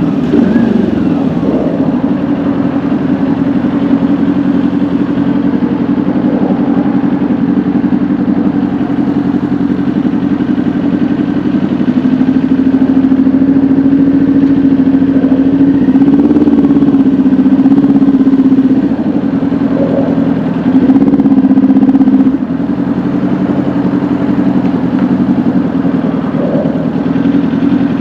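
Kawasaki Ninja 400 parallel-twin engine running at steady revs while riding. The pitch falls right at the start and dips and comes back up about halfway through, with a briefly louder burst of throttle a few seconds later.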